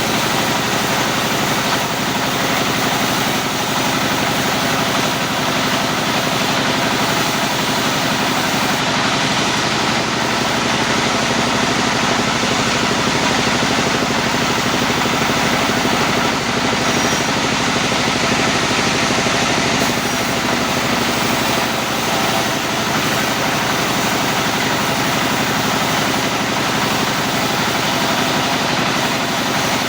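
Sawmill machinery running steadily, a loud, even engine-driven drone with no break.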